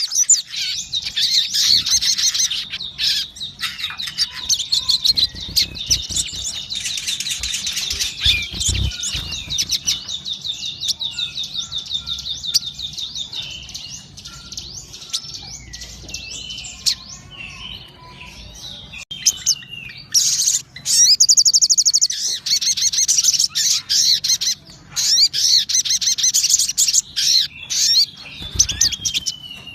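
Sogon (sunbird) singing a fast, high-pitched twittering song in long rapid trills. It goes quieter through the middle and comes back loud after about twenty seconds, in the full song keepers call 'gacor'.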